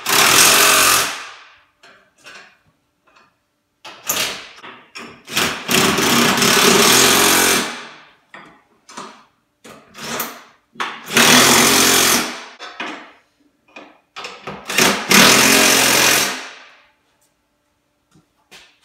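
Power impact wrench hammering bolts tight, in four loud bursts of one to four seconds with short clicks and rattles between them.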